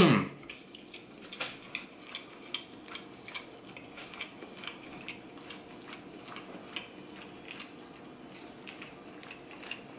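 Close-up mouth sounds of someone chewing a mouthful of shredded kalua pork: soft, irregular wet clicks and smacks, a few each second.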